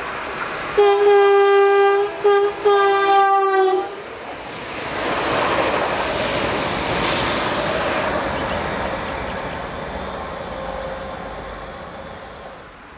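Renfe electric commuter train sounding its horn about a second in: one long blast broken twice by brief gaps, about three seconds in all. The train then passes at speed, its rush of wheels on rails swelling and slowly fading away.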